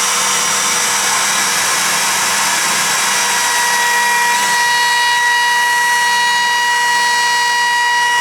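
Electric power tool running steadily, a loud hiss with a constant high whine. It cuts in and out abruptly.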